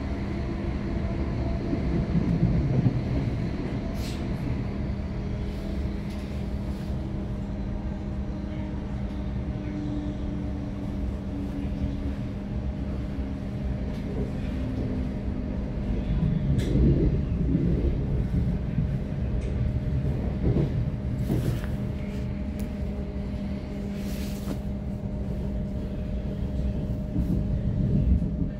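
Inside a moving electric passenger train: a steady low rumble of the wheels on the track with a constant hum, and a few sharp clicks and knocks from the rails along the way.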